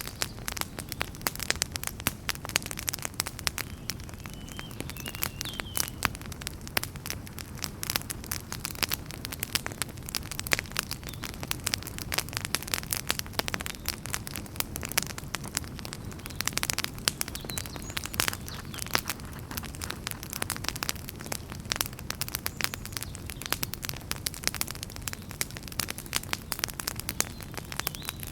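Wood fire burning in a fireplace: a steady low rumble of flames under dense, irregular crackles and pops, with a faint brief whistle of escaping gas or steam from the wood a few seconds in.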